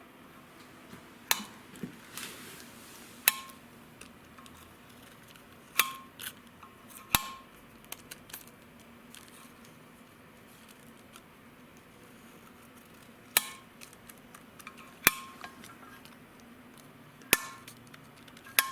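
About eight sharp metal clicks at uneven intervals, some with a short ring: steel valves striking their freshly cut seats in a VAZ cylinder head, a check that the seats sit true to the valve guides.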